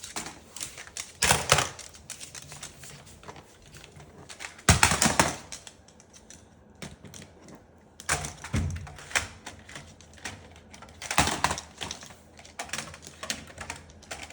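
Toy truck clicking and clattering as a cockatoo handles it, with four louder knocks spread through it.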